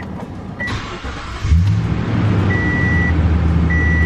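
A 2016 Toyota Tundra's V8 is cranked and catches about a second and a half in, then settles into a steady idle, while the dashboard warning chime beeps at an even pace, a single high tone repeating about every second.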